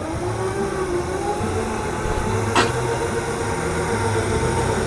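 Electric garden tractor's motor whining under load as it pulls the weight sled, its pitch slowly rising over a steady hum. A sharp click sounds about two and a half seconds in.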